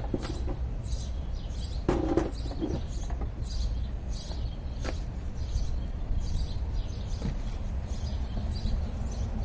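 Small birds chirping repeatedly over a steady low outdoor rumble, with a brief clunk about two seconds in.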